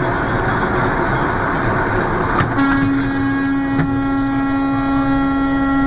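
Steady road and engine noise from a moving car, then, about two and a half seconds in, a vehicle horn sounds and is held on one steady note.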